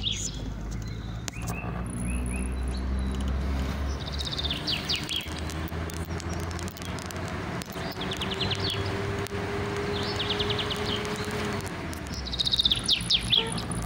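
A small bird singing short, fast, high trills, four phrases a few seconds apart, over a steady low outdoor rumble.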